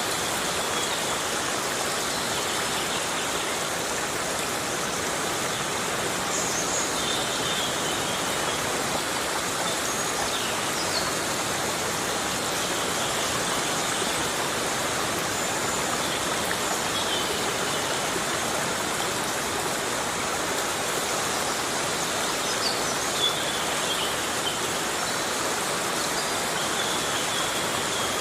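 Heavy rain falling steadily in a tropical rainforest: an even, unbroken hiss of water.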